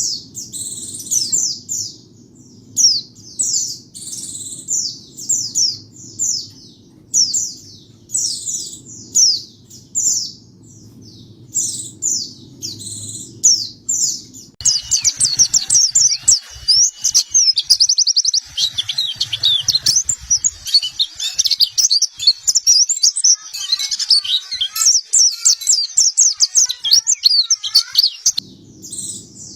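White-eyes (pleci) singing: short, quick, high chirp phrases repeated about once a second, then about halfway through a sudden change to a dense, rapid twittering song that runs until just before the end, when the short phrases return.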